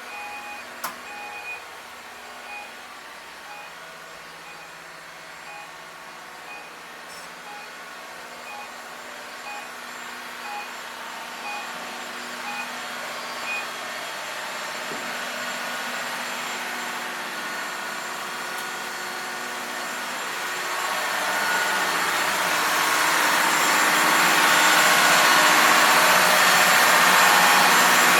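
Steady hum of engine-room machinery with short repeated electronic beeps, about one and a half a second, that stop about halfway through. The machinery noise then grows much louder over the last third.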